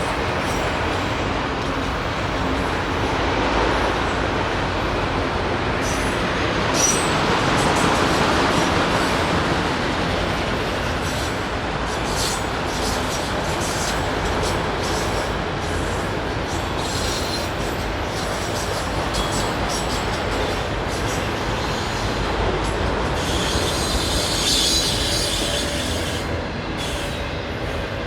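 Norfolk Southern freight train cars rolling past: a steady rumble and clatter of steel wheels on the rails, with wheel squeal throughout that grows louder and higher for a few seconds near the end.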